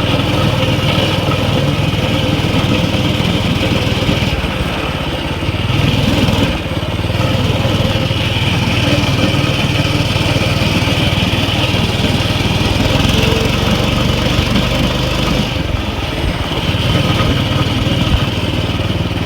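Mini bike's small single-cylinder engine running under way, its speed rising and easing off a couple of times, with a brief louder surge about six seconds in.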